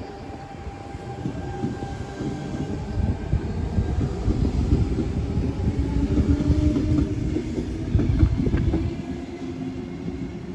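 Sydney Trains Tangara electric train running on the track. Its low rumble builds to its loudest about eight seconds in, then eases, with a few sharp wheel clicks near the loudest point.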